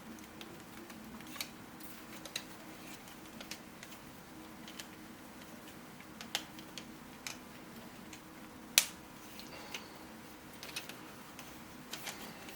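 3D printed plastic puzzle pieces clicking and knocking together as they are handled and pushed into place, with one sharp, loud snap about nine seconds in as a piece clicks home.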